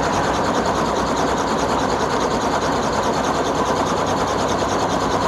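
Small tour helicopter running on the ground before takeoff, heard from inside the cabin as a steady, dense engine-and-rotor noise with a faint steady tone.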